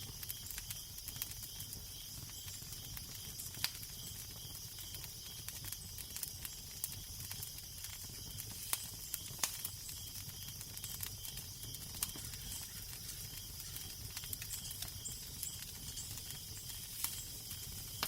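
Crackling fire: a steady hiss full of small irregular pops, with a few louder snaps about three and a half, nine and twelve seconds in. Underneath runs a low steady wind rumble.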